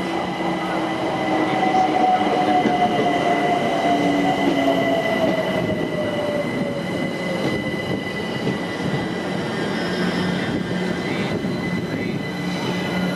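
London Overground electric train slowing into the platform: its motor whine falls steadily in pitch over several seconds, over running rumble and a steady high squeal.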